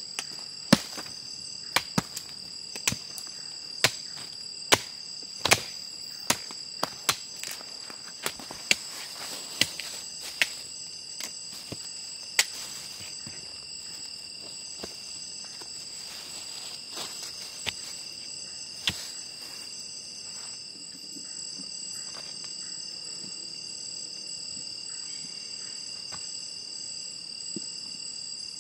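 Night insects, crickets among them, chirring in a steady high drone, with a string of sharp knocks about once a second during the first twenty seconds that then stop.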